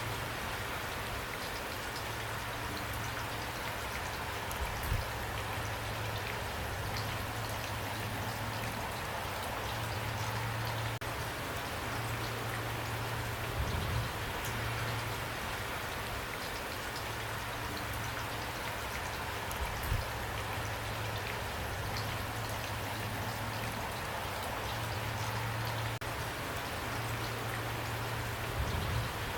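Steady rain falling, with a few louder dull thuds now and then.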